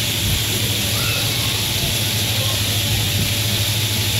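Coal train hopper cars rolling past at a distance: a steady low rumble with a constant hiss over it.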